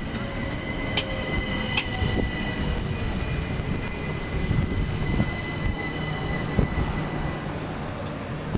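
Class 375 electric multiple unit running along the platform: a steady rumble of wheels on rail with a thin high tone above it that fades out about seven seconds in, and two sharp clicks in the first two seconds.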